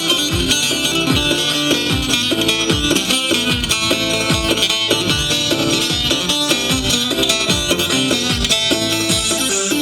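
Live dance music: a fast plucked-string melody over a steady, regular drum beat.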